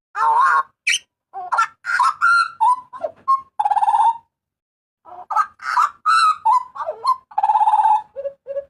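Butcherbird calling loudly in a varied series of whistles and harsh squawks. It gives two buzzy rattling calls, pauses for about a second in the middle, and ends with a quick row of short, low whistled notes.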